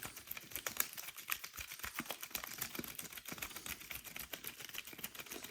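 Faint, rapid small clicks and ticks of metal parts as a carburetor's main jet is screwed back in and snugged down during reassembly.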